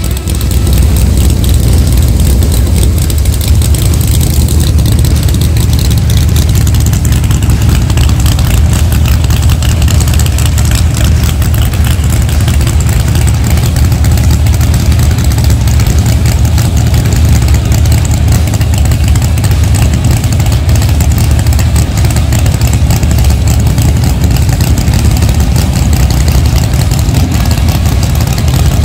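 Drag-race car's engine, a Fox-body Mustang, idling loudly and steadily while the car waits at the starting line, with a heavy low-pitched sound.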